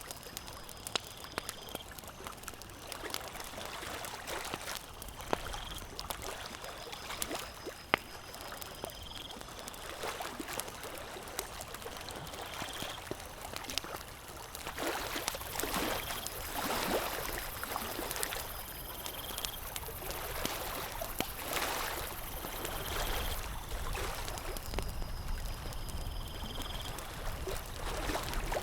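Campfire crackling with scattered sharp pops, over water lapping that swells louder around the middle. A faint, short high chirp repeats about every four seconds.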